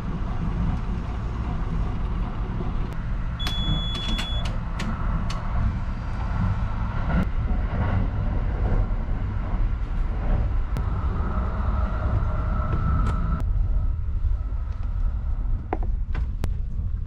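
Steady low rumble of the Hinotori limited express train running, heard from inside the passenger car. A single high electronic beep lasting about a second sounds a few seconds in, and scattered small clicks come and go.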